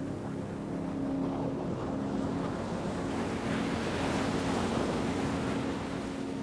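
Ocean waves rushing and washing, with one wave swelling up about halfway through and easing off, over a steady, low, held drone.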